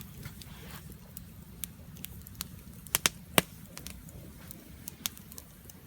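Burning charcoal fire crackling, with irregular sharp pops over a low steady rumble. A few louder pops come about three seconds in.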